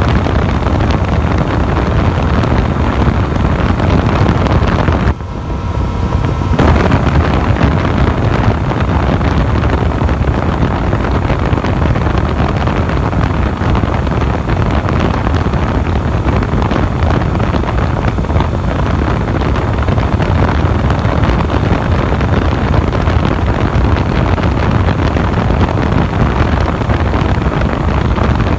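Yamaha FZ-09 motorcycle's inline three-cylinder engine running at a steady cruising speed, heavily mixed with wind rushing over the microphone. About five seconds in the noise drops briefly, then builds back within a second or two.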